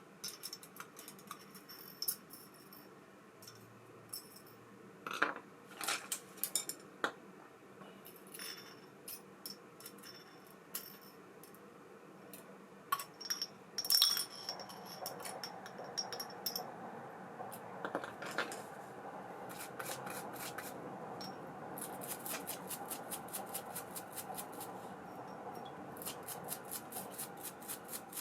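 Small metal parts of an ABU Ambassadeur 5500C baitcasting reel clicking and clinking as it is handled. About halfway in a steady whir starts, carrying fast, even clicking that grows more regular near the end.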